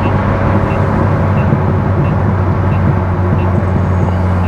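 C6 Corvette Z06's 7.0-litre LS7 V8 running at a steady highway cruise: a constant low drone with road noise. A faint regular ticking comes about one and a half times a second.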